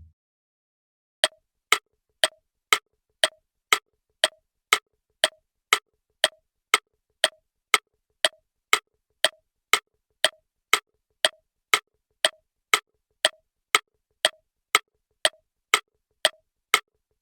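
Steady clock-tick sound effect, a sharp click about twice a second, starting about a second in: a quiz countdown timer running while the viewer works on the answer.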